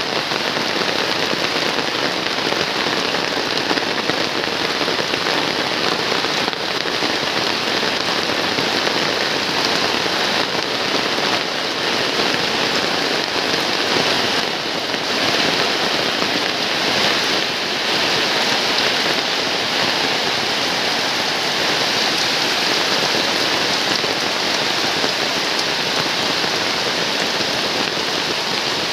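Heavy rain falling, an even, steady hiss of rain on surfaces.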